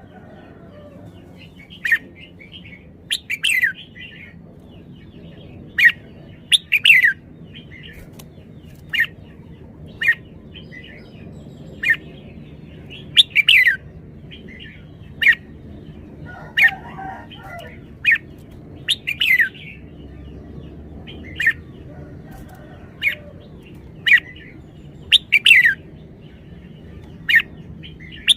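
Red-whiskered bulbul calling: short, sharp chirps and quick downward-sweeping notes, repeated every second or two.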